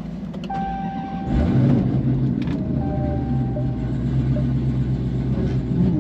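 A car engine running under load, louder and holding a steady low note from about a second in. A thin high whine comes and goes twice.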